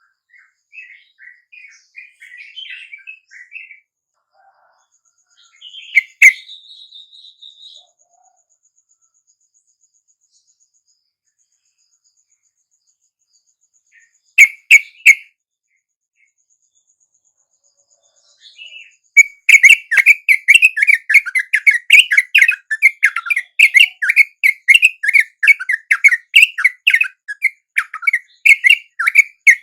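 Yellow-vented bulbul calls: scattered soft chirps at first, a loud call about six seconds in and a couple of sharp notes around fifteen seconds, then from about nineteen seconds a fast, loud, unbroken chattering run of repeated notes.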